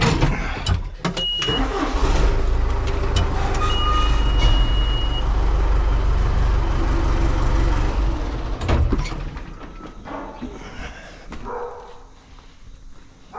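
A motor vehicle's engine running close by with a heavy, steady low rumble for about eight seconds, then fading away.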